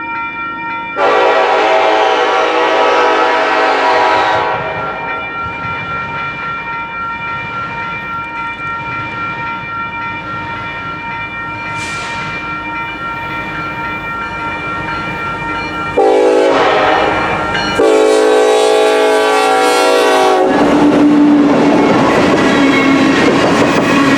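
Diesel freight locomotive's air horn sounding while the train rolls by, with rail clickety-clack underneath. There is one long blast about a second in, then a longer sequence of blasts starting near the end.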